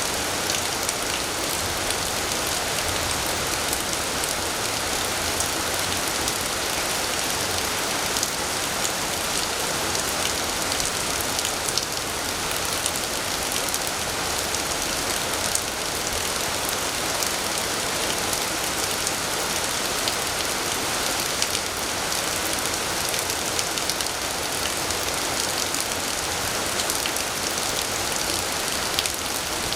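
Heavy rain falling steadily, with many individual drop hits sounding through the even hiss.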